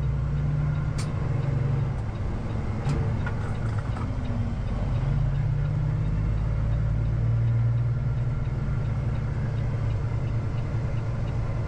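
Peterbilt semi truck's diesel engine running with a steady low drone, heard from inside the cab, with two light clicks, one about a second in and one about three seconds in.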